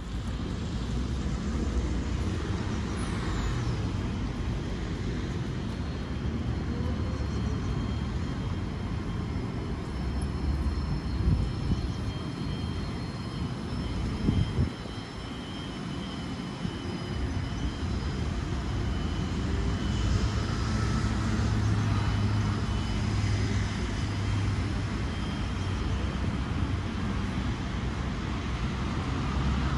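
Alstom Citadis 405 tram running, a steady low rumble with faint high whining tones.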